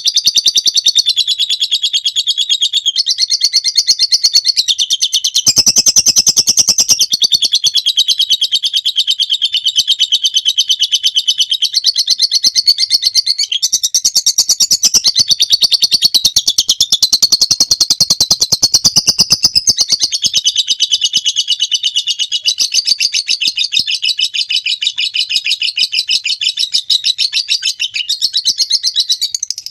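Lovebird singing a long ngekek: an unbroken, rapid, shrill chattering trill of many notes a second, loud and steady throughout with small shifts in pitch.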